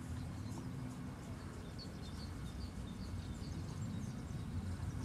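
A small songbird gives a run of short, high chirps, roughly three a second, for a couple of seconds in the middle, over a steady low rumble.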